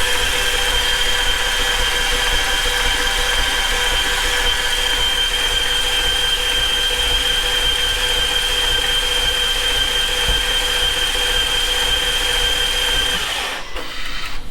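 BMW F90 M5's 4.4-litre twin-turbo V8 turning over on its starter motor without firing, with a steady whine and a diesel and engine-oil mix in the cylinders; the cranking stops about a second before the end. The mechanic says the engine has no compression.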